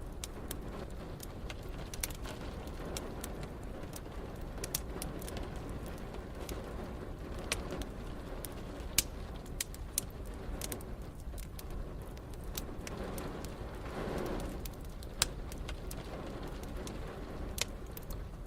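Wood fire crackling, with many sharp, irregular pops over a steady hiss of rain. A soft low swell rises and fades about fourteen seconds in.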